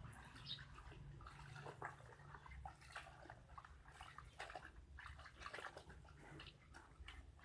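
Faint water sloshing in a basin of clothes, with scattered small clicks and taps.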